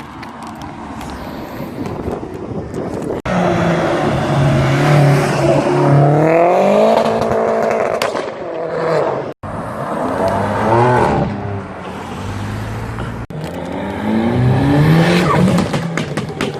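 Modified car engines accelerating away, each engine note climbing in pitch as it revs up. This happens several times in a row, and the sound breaks off abruptly three times.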